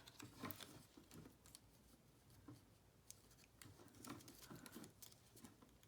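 Near silence with faint, scattered clicks and light rustles of paper being handled.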